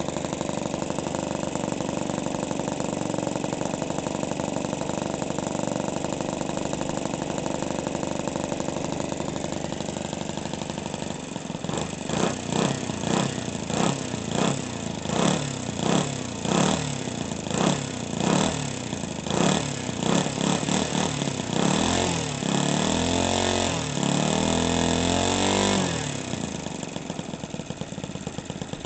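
OS 91 four-stroke model-aircraft engine being warmed up: it idles steadily, then about eleven seconds in the throttle is blipped repeatedly, roughly once a second, before being held at higher revs for a few seconds and dropped back to idle.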